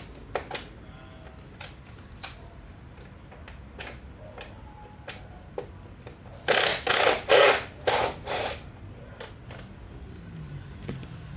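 Scattered clicks and knocks from handling things, with a run of about five loud, short rustling or scraping bursts a little past the middle.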